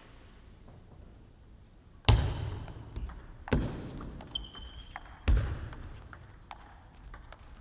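Three heavy thuds, about two, three and a half, and five seconds in, each echoing in a large hall, with faint light clicks and a short high squeak between them.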